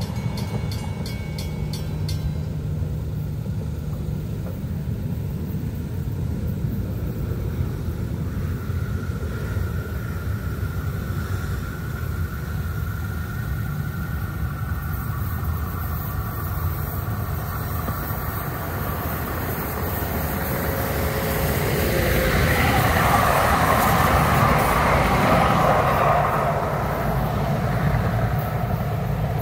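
Train running past a grade crossing with a steady rumble that swells louder about three quarters of the way through. The crossing's mechanical bell rings rapidly at the start and stops about two seconds in.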